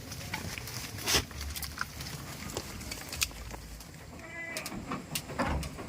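A goat bleats once, briefly, about four seconds in, among scattered clicks and knocks.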